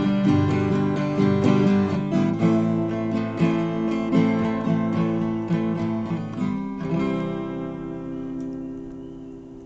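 Acoustic guitar strumming the closing chords of a song. About seven seconds in it stops on a final chord that rings out and fades.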